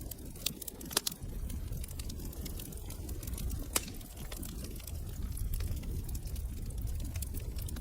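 Wood fire crackling in a fireplace: irregular sharp pops and snaps over a low rumble of burning, with a louder snap about a second in and another near four seconds.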